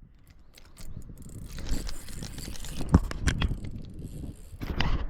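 Scraping and clattering of gear being handled in a small boat, with a run of sharp knocks. The loudest knock comes about three seconds in, and another burst of scraping comes near the end.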